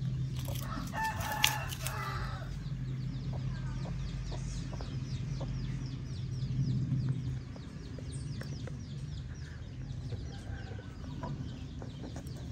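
Birds calling in the background: a drawn-out pitched call about a second in, then a long run of quick, evenly repeated high chirps, over a steady low hum.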